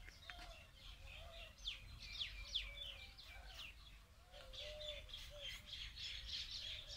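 Small birds chirping in a busy run of quick, falling high notes, with softer, lower arched calls beneath them.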